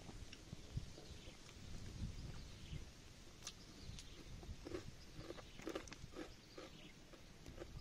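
Faint chewing of cooked snail meat, with scattered small clicks as the snails are picked from their shells with a thin stick.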